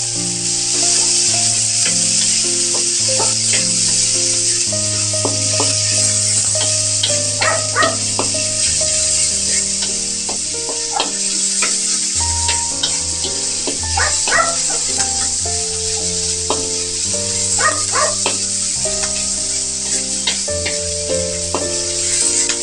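Sliced onions sizzling in hot oil in a steel wok: a steady frying hiss, with scattered clicks and scrapes of a wooden spatula stirring against the metal. Background music plays underneath.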